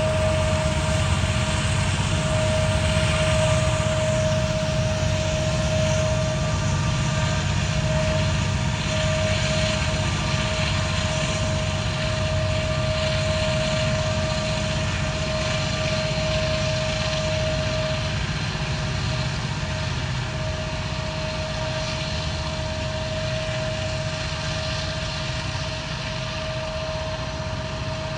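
Norfolk Southern ACU diesel-electric locomotives (GE AC44C6M rebuilds) working hard under heavy throttle: a deep, steady engine rumble with a steady high turbocharger whine, slowly fading in the second half.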